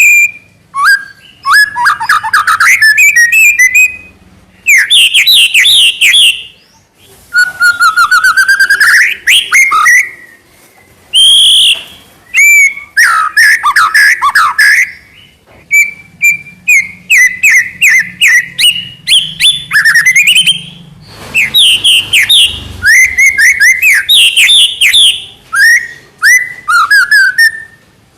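White-rumped shama in full, rapid-fire song: loud, varied phrases of whistled glides, fast trills and chattering notes, separated by short pauses.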